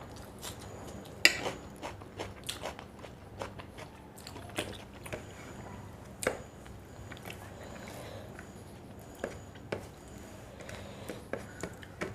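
A person chewing and eating a meal of rice and fish curry, with many short wet mouth clicks and smacks; one sharp click or crunch about a second in is the loudest.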